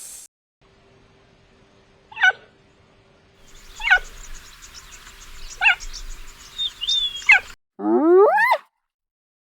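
A brief hiss cuts off at the start. Then come four short animal calls, each falling steeply in pitch, about every second and a half over a faint steady hum. About eight seconds in there is one rising call from a different animal.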